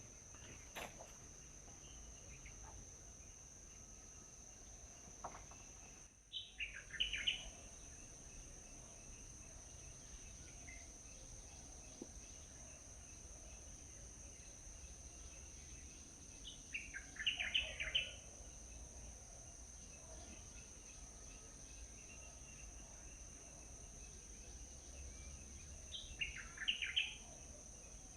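Small birds calling in three short bursts of quick, downward-sweeping chirps, about ten seconds apart.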